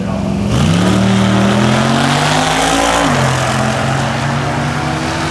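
A race car's V8 engine accelerating hard at full throttle, its pitch climbing steeply, dropping at a gear change about three seconds in, then climbing again.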